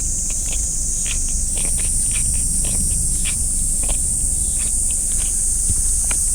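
Insects droning steadily in a high, continuous buzz over a steady low rumble, with many short, irregular rustles.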